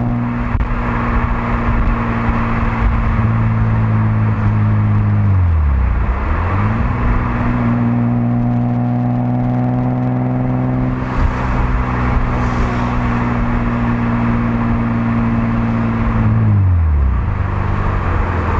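1997 Ford Probe's 2.5-litre 24-valve V6 through a Magnaflow rear silencer, the rest of the exhaust stock, running at steady raised revs. About five seconds in the revs drop away and climb straight back up, and near the end they fall off again.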